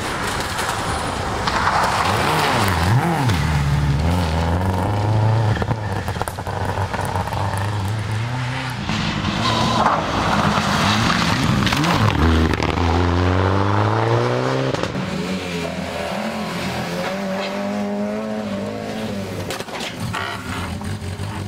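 Rally car engine at full throttle, its pitch climbing and dropping back at each gear change several times, with tyre and road noise underneath.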